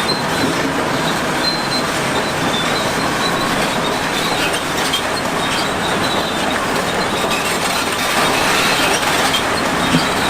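Heavy construction machinery working: a loud, steady mechanical din with high metallic squeals and clanking over it.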